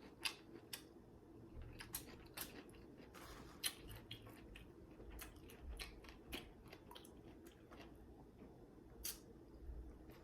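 Close-miked chewing of food, with scattered soft wet clicks and crunches at irregular intervals.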